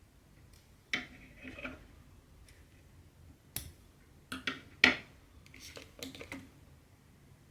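Small sharp clicks and taps with brief rustles, about eight in all, the loudest near five seconds in: a needle and cotton thread being worked through 18-count Aida fabric in cross-stitching.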